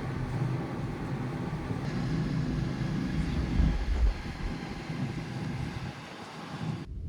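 Steady low rumble and drone of a large car ferry's engines under way, with a broad noisy wash over it, cutting off abruptly just before the end.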